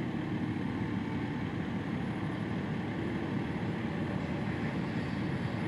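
Steady engine drone of a claw (grapple) truck running while it works its boom on tree debris.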